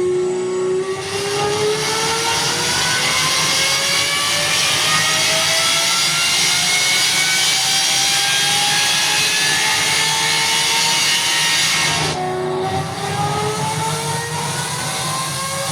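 Lamborghini Revuelto V12 with a Gintani aftermarket exhaust under full throttle, its note climbing steadily through the revs. About twelve seconds in it drops sharply in pitch at an upshift, then climbs again.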